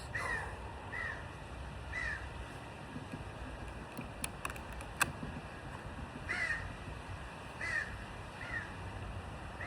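A crow cawing: three short caws about a second apart, then after a pause three more. A few sharp clicks sound near the middle, the loudest about five seconds in.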